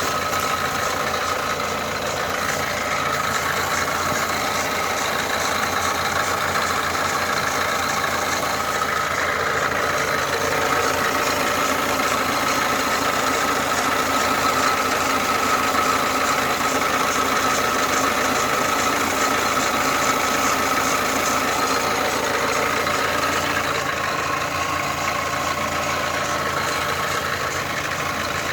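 Opel Astra F engine running with a regular knocking noise that started after a timing-belt and water-pump replacement. The noise comes once at one point in the engine's turn and quickens with engine speed; the owner wonders whether it comes from the crankshaft or a connecting rod.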